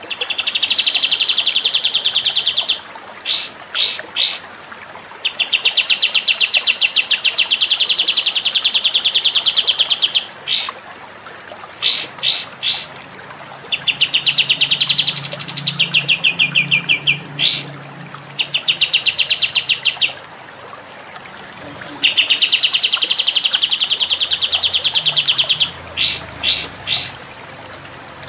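Recorded songbird song used as a masteran for training captive birds: long, rapid, high-pitched trills lasting a few seconds each, broken by quick groups of two or three sharp whistled notes.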